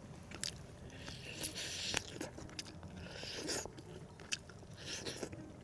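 Close-up eating sounds: crunchy chewing and biting, with scattered sharp clicks and smacks.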